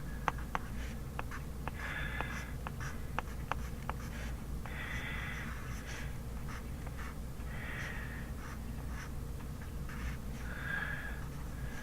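Handwriting on paper: short scratchy strokes every few seconds, with quick sharp taps of the writing tip, as kanji are written into a drill book. A steady low hum runs underneath.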